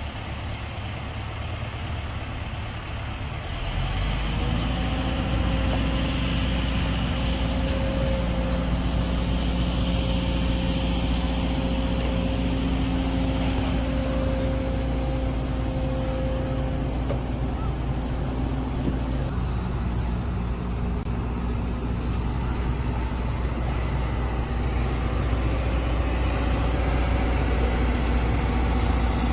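Heavy excavator's diesel engine running, stepping up to a louder, steady drone about three and a half seconds in, as if taking on load.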